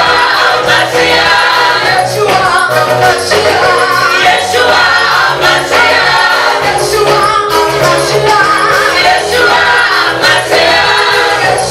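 Gospel choir singing with band accompaniment: a steady bass line and a bright jingling percussion beat.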